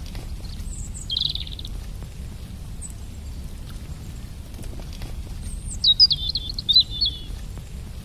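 Wild birds calling: a short buzzy trill about a second in, then a louder, quick warbling phrase near the end, over a steady low rumble of outdoor background noise.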